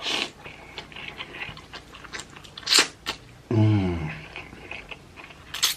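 Close-miked eating of spicy hot chicken ramen noodles: wet chewing and mouth clicks, with a few sharper noisy bursts. A short hummed voice sound falls in pitch a little past halfway.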